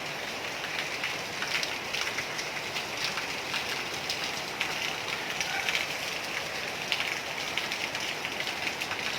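Heavy rain falling steadily, with a dense scatter of close drop ticks on a hard surface.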